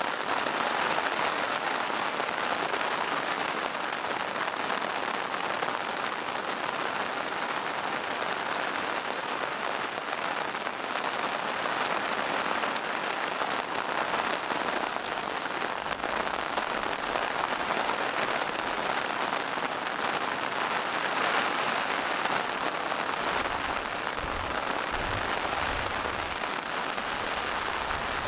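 Steady rain falling in a forest: an even, dense patter of drops on leaves and rocks, with no break.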